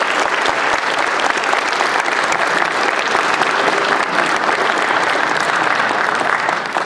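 Audience applauding steadily after a song, the clapping starting to fade near the end.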